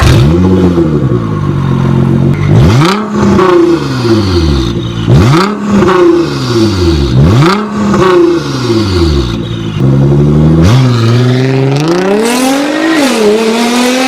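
Car engine revving, its pitch rising and falling again and again about every two seconds, then climbing more steadily near the end.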